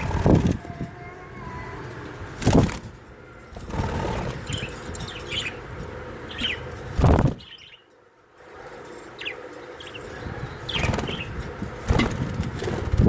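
A colony of budgerigars: about six sudden bursts of wing flapping, with short high chirps in between.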